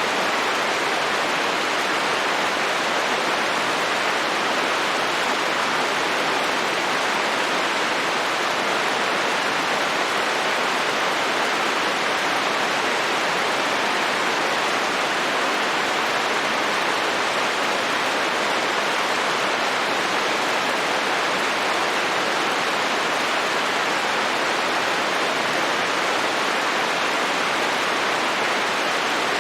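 Steady, even rain noise with no separate drops or changes: a dense hiss.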